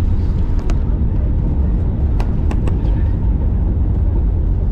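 Steady deep rumble of an airliner's cabin noise during landing, with a few sharp clicks, three of them close together about two seconds in.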